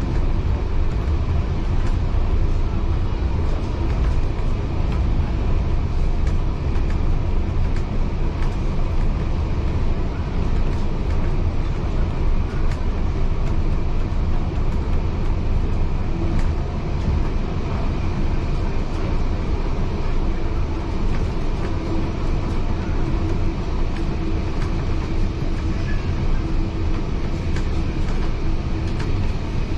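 Heritage railway carriage running along the track, heard from inside: a steady low rumble of wheels on rail with scattered clicks and knocks, and a faint steady hum joining about halfway through.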